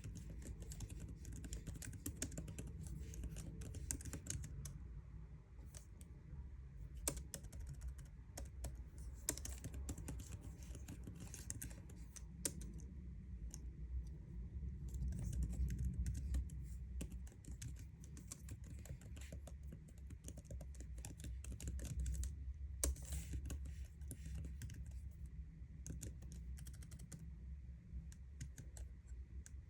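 MacBook keyboard being typed on continuously: quick, irregular key clicks with an occasional louder keystroke.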